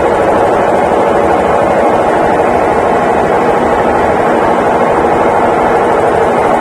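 Consul Facilite 11 kg (CWG11) washing machine in its final spin: the motor and drum spinning at speed, giving a loud, steady whirring hum.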